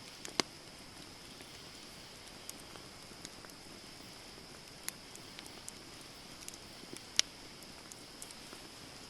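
Wood campfire crackling: scattered sharp pops and snaps from the burning wood over a steady soft hiss, with two louder pops about half a second in and about seven seconds in.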